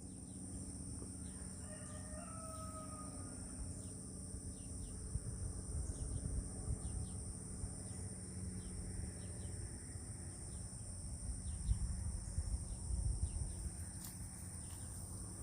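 A rooster crows once, faintly, about two seconds in, over a steady chirring of insects. A low rumbling noise rises through the middle.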